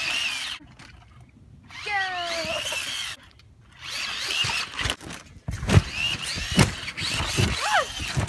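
Electric motor of a radio-controlled car whining and revving in short bursts, the pitch rising and falling with the throttle. Several low thumps come in the second half.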